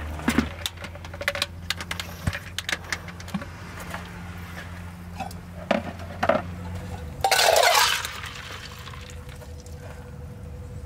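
Dishes and utensils clinking and knocking as camp cookware is handled, with a short loud hiss about seven seconds in.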